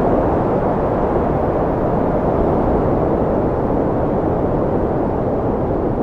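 Strong wind blowing in a steady low rush, without gusts or breaks.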